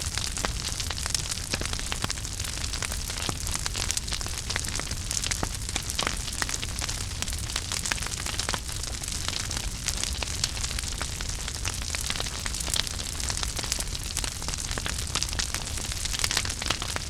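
Wood fire burning in a fireplace: steady hiss and low rumble with dense, continuous crackling and small pops.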